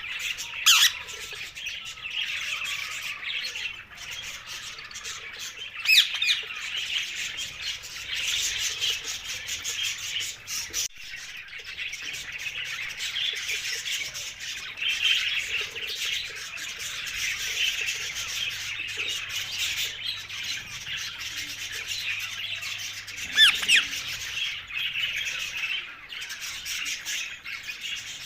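Alexandrine parakeets chattering and squawking without a break, with three loud, sharp squawks about a second in, around six seconds in, and near the end.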